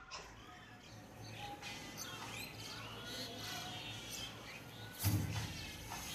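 Small birds chirping and twittering outside, with one short, loud animal burst about five seconds in as a cat faces a monkey.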